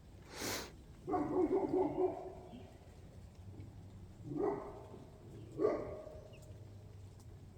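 A neighbour's dog a few doors down barking: a quick run of barks about a second in, then two single barks. A short rushing noise comes just before them.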